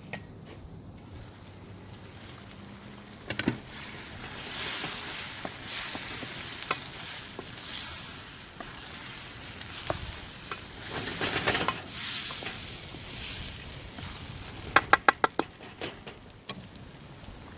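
Chicken karahi frying and sizzling in the pan as it is stirred, the sizzle swelling for several seconds in the middle. Near the end comes a quick run of about six sharp metallic taps.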